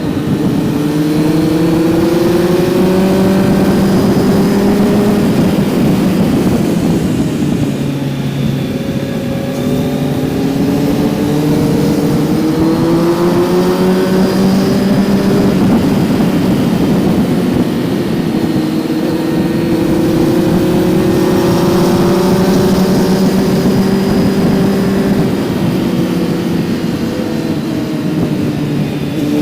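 Kawasaki Z900's 948 cc inline-four engine pulling under throttle. Its note climbs in pitch three times, and each climb ends in a drop near the fifth, sixteenth and twenty-sixth second.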